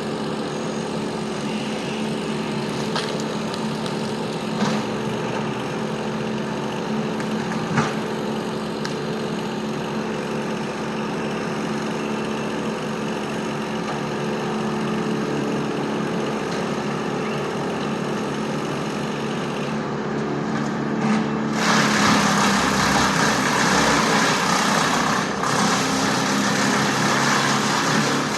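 Tree-removal machinery engine running steadily, with a few light knocks; about 21 seconds in, a much louder, rougher noise sets in and keeps going.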